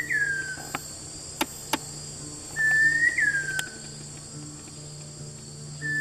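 Large wren babbler singing: a clear whistle held briefly, then flicking up and sliding down, repeated about every three seconds. A steady high insect drone runs under it, with soft guitar music and a few sharp clicks.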